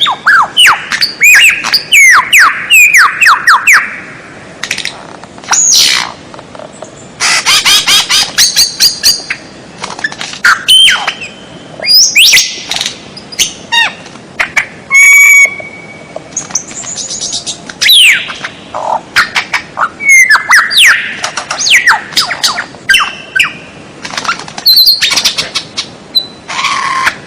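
A songbird's loud, varied song on a cage-bird tutoring recording (masteran): phrases of quick sweeping whistles, rapid trills and harsh squawky notes, each phrase lasting one to three seconds and separated by short pauses.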